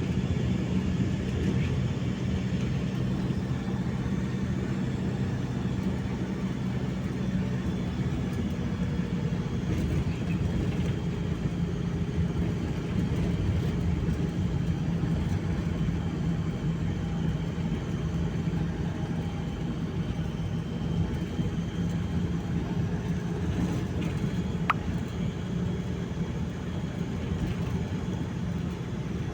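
A vehicle running steadily: a continuous low drone with a steady hum.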